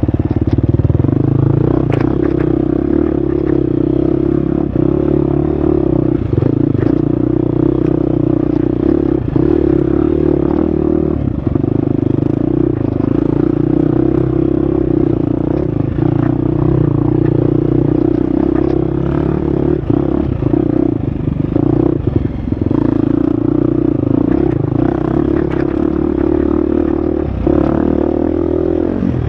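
Husqvarna FX 350 four-stroke single-cylinder dirt bike engine running steadily under load on a trail, its pitch wavering a little with the throttle. Scattered clattering knocks from the bike over rough ground.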